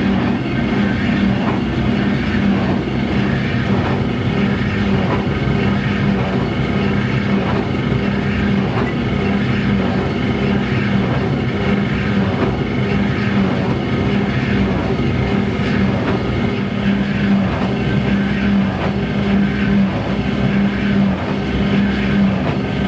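A machine running steadily with a strong, even hum.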